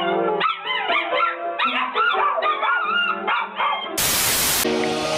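A dog howling and yowling in a string of short, rising-and-falling cries, singing along on cue. About four seconds in, it cuts off and loud pop music with a dance beat starts.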